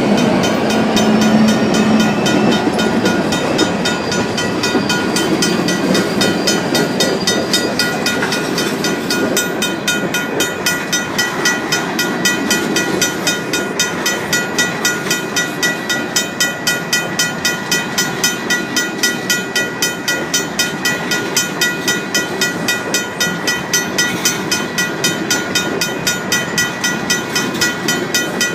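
A mechanical railroad crossing bell ringing in a steady rhythm of a few strikes a second, over the rumble of a freight train rolling through the crossing on its rails. The bell strikes stand out more sharply from about ten seconds in.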